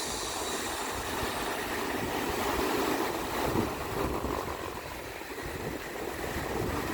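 Strong wind buffeting the microphone: a steady rushing noise with an uneven low rumble.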